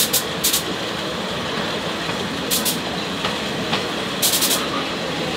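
Passenger train running along the track: a steady rolling noise broken by small clusters of sharp clacks, the longest run of four about four seconds in.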